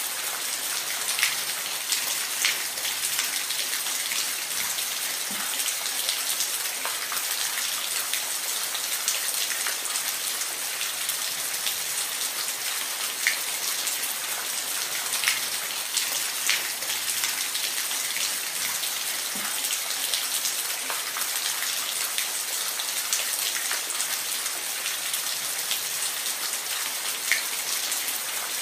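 Steady rain falling, an even hiss with scattered close, distinct drops ticking on a surface.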